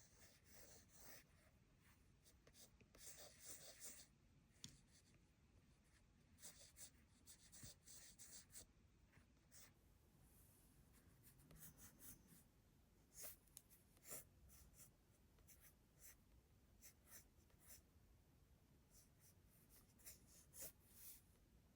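Faint scratching of a drawing tool on sketchbook paper, in short irregular strokes.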